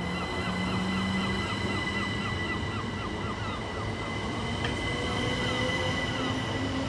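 Class 377 Electrostar electric multiple unit at the platform, its electrical equipment whining with steady high-pitched tones over a low rumble. A lower tone rises slowly in pitch in the second half.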